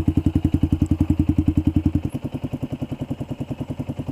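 Yamaha Xabre's single-cylinder engine idling through a Tridente F22 carbon exhaust set to its racing mode: a steady, deep, rapid putting of about eleven beats a second. About halfway through it turns quieter and loses its deepest bass, and it dies away at the very end.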